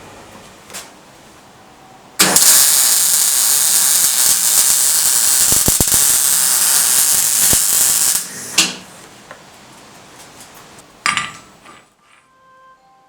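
A power tool runs loudly for about six seconds as a steady, noisy rush, then cuts off. It starts up briefly twice more.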